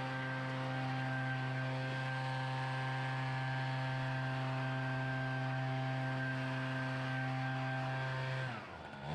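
Small gasoline engine of lawn equipment running steadily at high speed, then throttled down near the end, its pitch falling.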